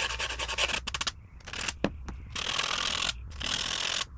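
Sandpaper scrubbing the electrode end of a spark plug to clean off crusty deposits: about a second of fast, short scratchy strokes, then longer steady rubs.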